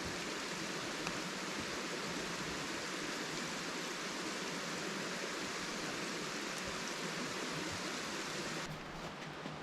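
Steady hiss of rain falling, even and unbroken, with an abrupt drop and change in tone near the end.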